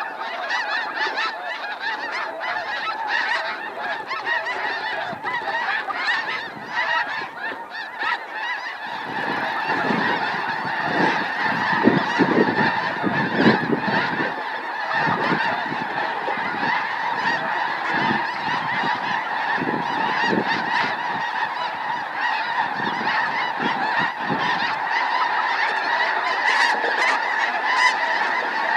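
A large flock of snow geese calling, a dense unbroken chorus of honking that grows fuller and a little louder about nine seconds in.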